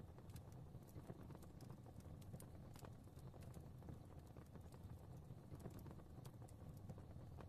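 Fireplace fire crackling softly: irregular small pops and snaps over a low, steady rumble of flame.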